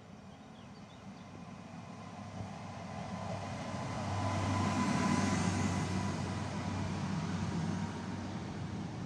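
Newag Impuls electric multiple unit running along the platform: wheels on the rails and running gear growing louder as it comes up, loudest about five seconds in as the front passes, then a steady rumble as the carriages go by. A thin steady whine sounds over the rumble.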